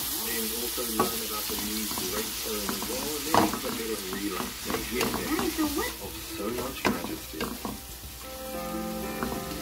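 Dried anchovies and sliced garlic sizzling in oil in a pan, stirred with a wooden spatula that scrapes and clicks against the pan now and then.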